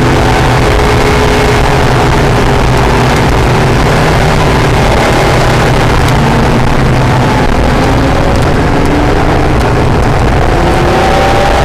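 Acura NSX's V6 engine running hard on a race track over a heavy rush of wind and road noise. Its pitch falls over the first few seconds, climbs about halfway through, drops off again and rises near the end.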